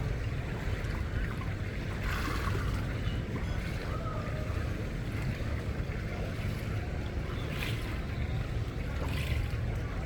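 Wind buffeting the microphone: a steady low rumble, with faint outdoor ambience.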